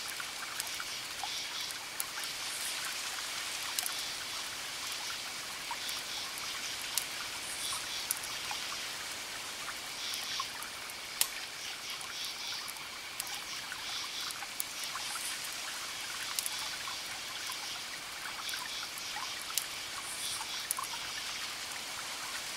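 Wood fire crackling: sharp pops and snaps every second or so over a steady hiss. Faint, high repeated chirping comes and goes in the background.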